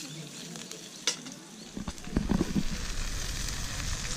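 Food sizzling in a hot pan, a steady hiss, with a sharp click about a second in. From about two seconds in there is a short cluster of knocks and a low rumble.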